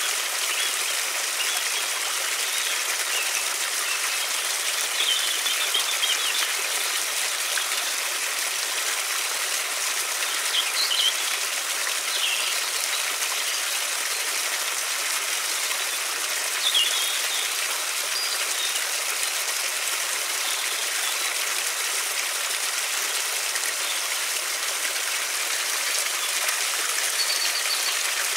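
River water flowing in a steady rush, with a few faint, short bird chirps scattered through.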